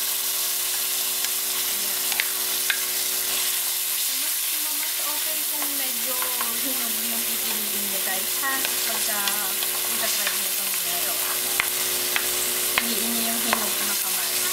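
Diced tomatoes, onion and garlic sizzling in hot oil in a frying pan, stirred with a plastic spoon, with a few light clicks of the spoon against the pan.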